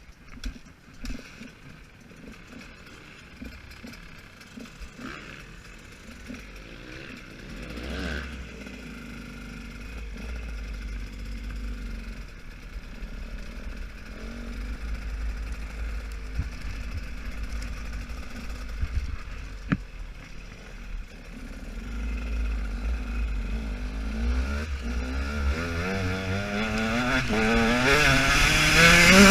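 A KTM 125 two-stroke motocross engine heard from on the bike. It runs at low revs, then revs up with a rising pitch in the last few seconds, where it is loudest.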